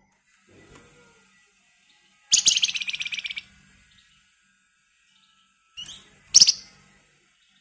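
Flamboyan bird (wergan Jawa) singing: a rapid rattling trill about a second long, then a short rising chirp and a sharp, loud single note near the end.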